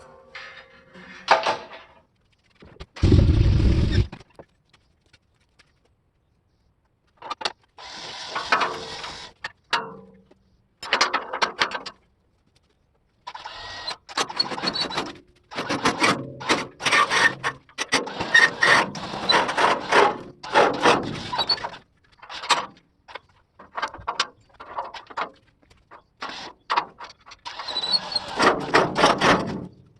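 Steel truck flatbed being handled and flipped: repeated metal clanking and clattering, with a heavy low thump about three seconds in.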